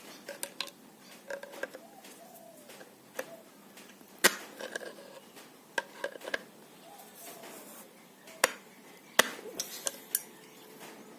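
Irregular sharp metallic clinks and knocks of steel parts being handled while a fire-extinguisher valve is fitted to a steel air tank, the loudest about four seconds in and twice more near the end.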